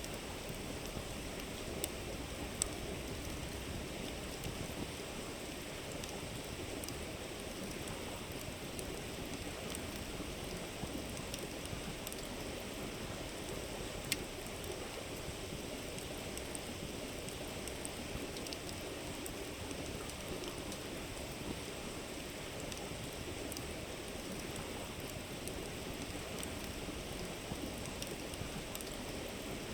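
River water flowing steadily, with a wood campfire crackling: scattered small snaps and a few sharper pops, the clearest about 2.6 and 14 seconds in.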